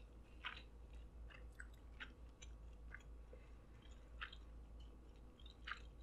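Faint chewing of a mouthful of sushi roll with the lips closed: soft, irregular little clicks.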